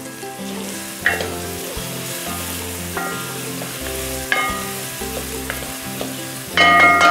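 Onions, ginger and garlic sizzling steadily as they sauté in olive oil in a steel pot, stirred with a wooden spoon. Three sharp knocks of the spoon against the pot, the loudest near the end.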